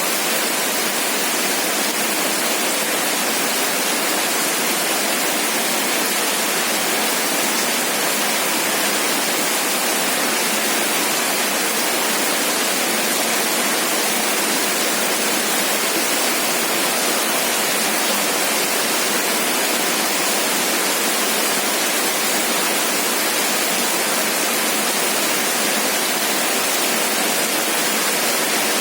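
Heavy rain falling steadily: a dense, even hiss with no breaks and almost no low rumble.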